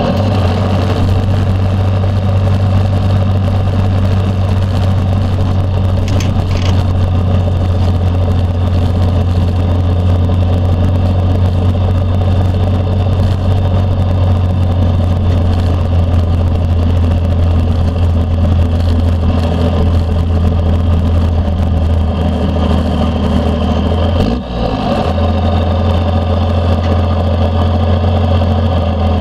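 Straight-piped 5.9-litre 12-valve Cummins inline-six turbodiesel in a 1992 Dodge D350 running steadily through a 5-inch stack, a deep even drone with a faint high turbo whistle over it. The drone dips briefly about three-quarters of the way through.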